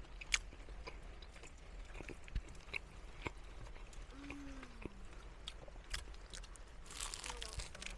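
Someone chewing and biting into crispy Korean fried chicken: scattered faint crunches and mouth clicks, with a short falling hum about four seconds in.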